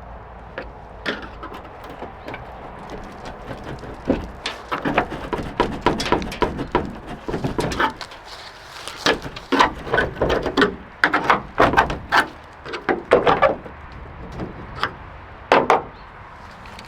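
Irregular knocks, clanks and rattles of metal tools and parts being handled during work on an old pickup truck, some ringing briefly. They start about four seconds in and come thickest in the middle, with a last loud pair near the end.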